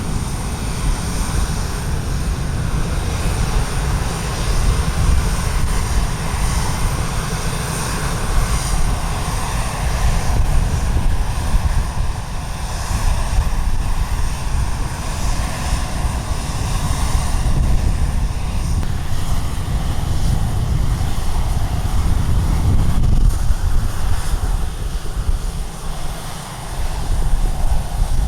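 Aircraft engines running, heard under heavy wind buffeting the microphone, a constant low rumble. The engine sound swells and fades over the seconds.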